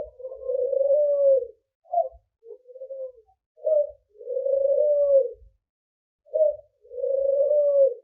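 A dove cooing in a repeated phrase, a short note followed by a long drawn-out coo, about every three seconds.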